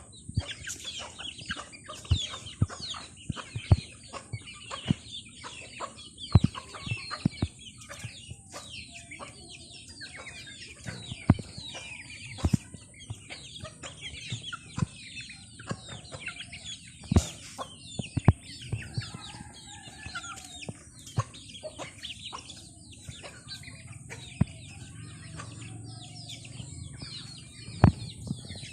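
Chickens clucking and chirping while feeding, with many short falling calls and sharp clicks and knocks scattered throughout.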